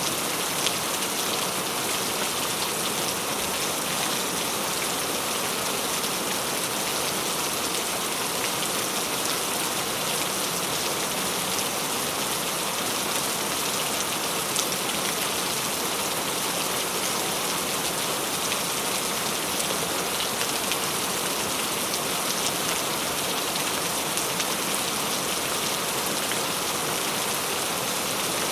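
Steady rain falling, an even hiss of many drops with scattered small taps of drops hitting a surface.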